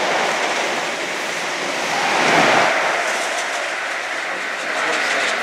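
InterCity 125 high-speed train running through at speed beneath the bridge, loudest about two and a half seconds in as its rear Class 43 power car passes under. It then rolls away with the wheels clattering over the rail joints.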